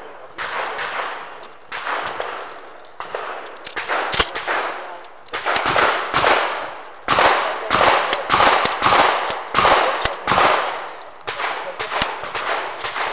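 Shotgun shots fired in quick strings during a practical shooting stage. Each report rings out briefly, with short pauses between strings; the shots come more densely in the middle.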